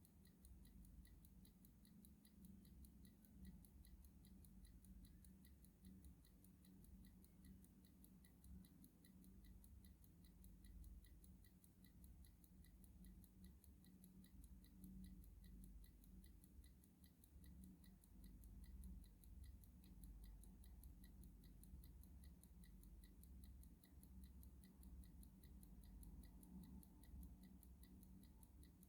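Clock ticking faintly in an even, steady rhythm.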